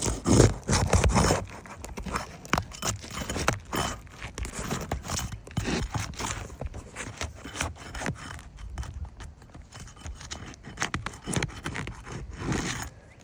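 Scraping and irregular knocking of a roof snake, a shingle removal pry tool, worked under asphalt shingles to break their seal and loosen the nails. Loudest about a second in.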